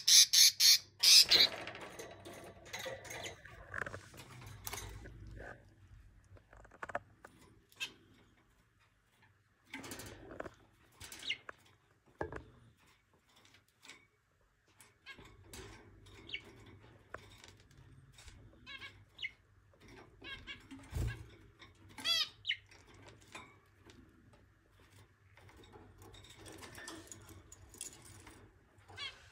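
Budgerigars calling: a quick run of loud, harsh squawks at the start, then scattered soft chirps and warbling chatter, with small clicks and taps between the calls.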